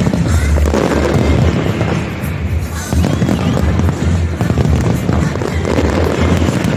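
Fireworks bursting in rapid, continuous bangs and crackles over loud music with a pulsing bass beat.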